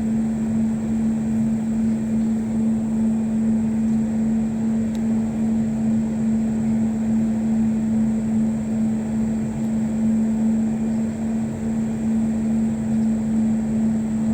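An engine running steadily at one constant pitch, a smooth drone with no change in speed.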